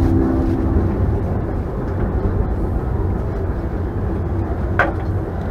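Steady low rumble of a passenger train carriage running on the rails, heard from inside. The last notes of the announcement chime die away in the first second, and a single short sharp clack comes near the end.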